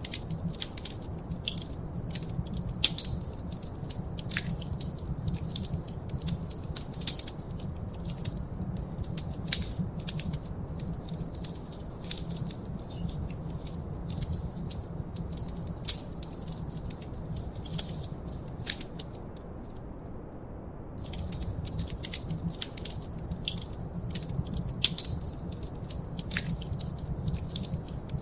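Wood fire crackling in a fireplace: irregular sharp pops and snaps over a steady low rumble of the flames. The crackling stops for about a second about two-thirds of the way through, then resumes.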